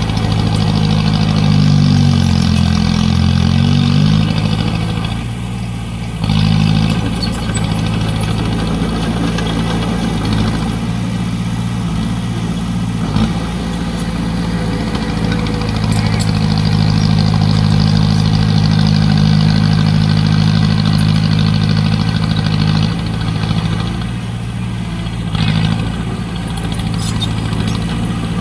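Heavy construction-machine diesel engine running steadily. Its pitch dips and rises briefly a couple of seconds in. It eases off around five seconds in, picks up again about a second later, and eases off once more near the end.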